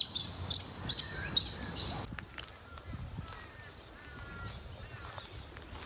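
Birds chirping: a rapid run of loud, high chirps that stops abruptly about two seconds in, followed by fainter, scattered calls.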